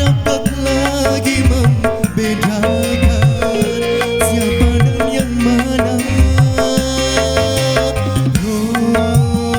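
Dangdut koplo band playing an instrumental passage: kendang drum strokes with bending low beats in a steady rhythm under a held electronic keyboard melody.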